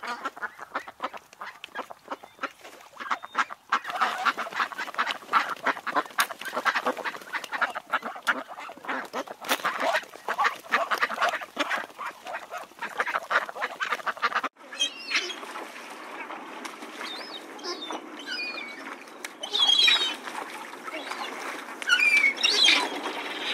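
A flock of waterfowl calling, many rapid overlapping honks and quacks. About fourteen seconds in it changes abruptly to chirping and whistling bird calls over a steady background hiss.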